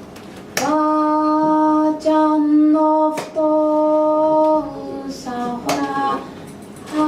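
A single pitched melodic line: three long notes held at one steady pitch, then a run of shorter, lower notes. Sharp clicks come at the first note and at about three seconds in.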